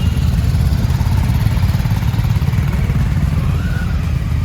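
Motorcycle engine running steadily at idle, with a low, pulsing exhaust note.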